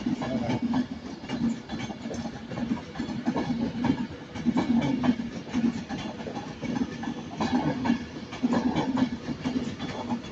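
Passenger train moving through the station, its wheels clattering over rail joints amid a steady rumble and hiss.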